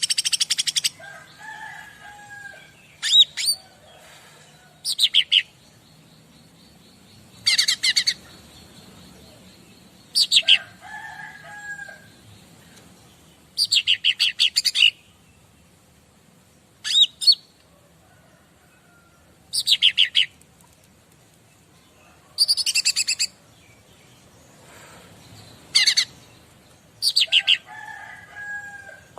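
Cica ranting songbird singing short, rapid, high-pitched trilled phrases every two to three seconds, a few of them followed by softer, lower warbling notes.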